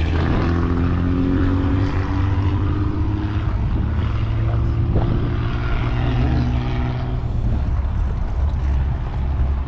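An engine drones steadily, rising slightly in pitch and fading out about seven and a half seconds in, over wind rumbling on the microphone.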